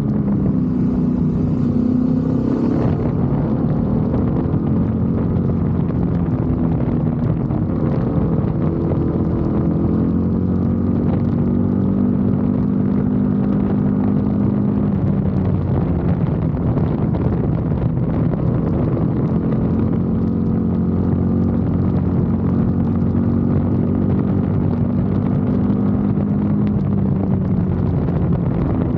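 BMW F 850 GS's 853 cc parallel-twin engine running steadily, its pitch shifting up and down several times as the engine speed changes.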